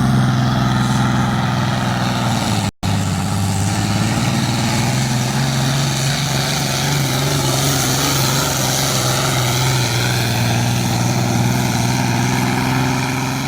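Tractor engine running at a steady, even pitch, broken by a brief dropout about three seconds in.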